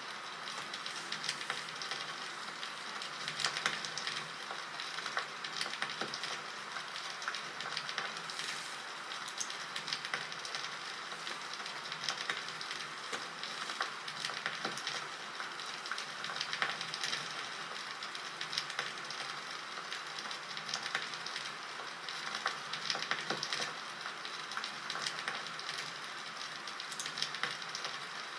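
Crackling wood fire (campfire sound effect): a steady hiss with frequent small irregular pops and cracks.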